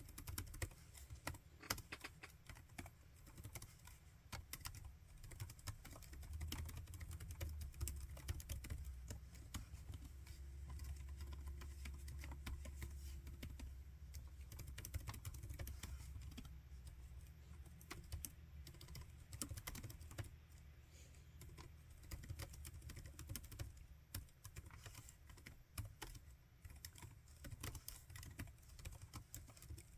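Laptop keyboard typing: quick, irregular key clicks with short pauses. A low hum runs underneath from about six seconds in until near the end.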